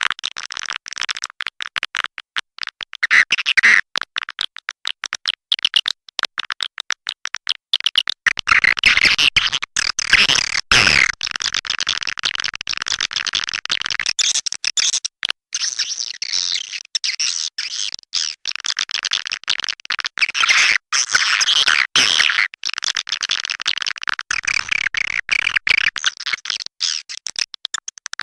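Swiftlet lure call: a dense, unbroken chatter of rapid chirps and clicks imitating a colony of edible-nest swiftlets, the sound played at swiftlet houses to call the birds in.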